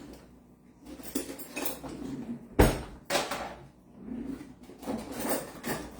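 Kitchen dishes and utensils clattering: a series of knocks and clinks, the loudest a sharp clack about two and a half seconds in.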